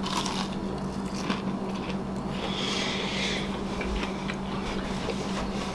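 A man chewing a mouthful of cooked crappie, with soft mouth clicks and a brief crunchy hiss about two and a half seconds in. A steady low hum runs underneath.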